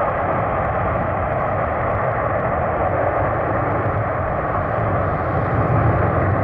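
Aircraft engine running: a steady rushing noise with a thin steady whine through it and a low rumble underneath.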